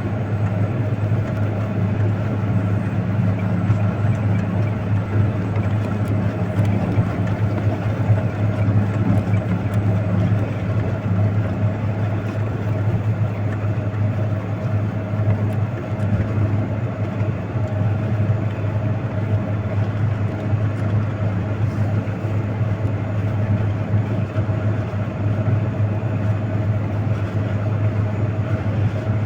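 Heavy vehicle's engine running steadily with a low, even drone.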